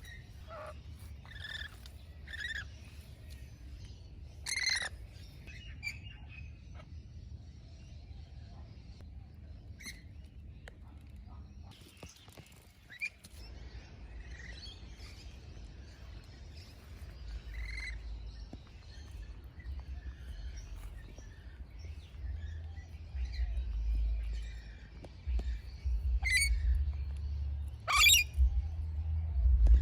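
Parrots chirping and calling on and off, with a few sharp, loud calls, over a low rumble that grows louder in the second half.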